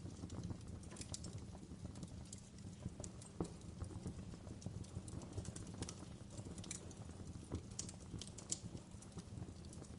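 Wood fire crackling in a fireplace: a low steady rumble of burning with irregular sharp pops and snaps, a few louder ones near the middle and toward the end.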